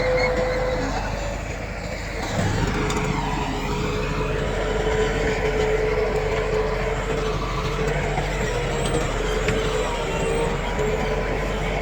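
Heavy diesel engine of earthmoving machinery running steadily under load, with a steady whine over it; it eases off briefly about two seconds in and picks up again.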